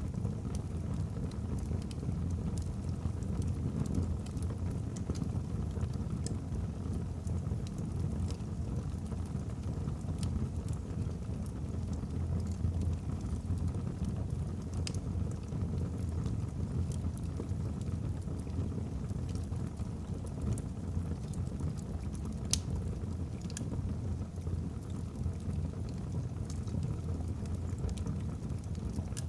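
Wood fire burning in a fireplace: a steady low rumble of flames with scattered faint crackles from the logs, and one sharper pop about three quarters of the way through.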